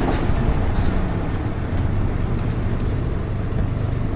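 Diesel engine of a Nissan Diesel RA-series city bus (PKG-RA274MAN) running steadily while the bus drives along, heard from inside the cabin. This bus's engine note differs from that of other buses of the same type.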